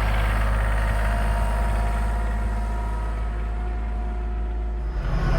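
Yanmar 235C compact tractor's diesel engine idling steadily, then speeding up and getting louder near the end as it is throttled up.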